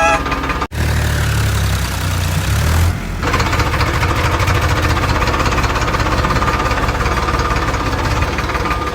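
Tractor engine running with a fast, knocking pulse and a heavy low rumble. The sound breaks off for an instant under a second in, and the low rumble eases about three seconds in as the running settles.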